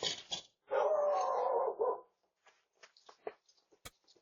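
A few sharp knocks on a door, then a dog's long whine of just over a second, followed by faint scattered taps.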